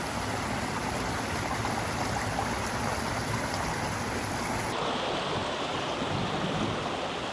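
Steady rush of running water, like a stream or small cascade, with an abrupt change in tone about five seconds in.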